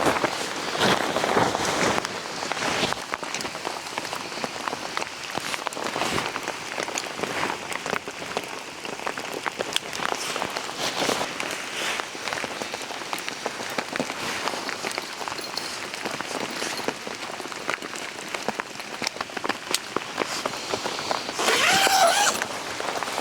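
Steady rain falling on leaves, with many small drops ticking throughout. A brief pitched sound stands out near the end.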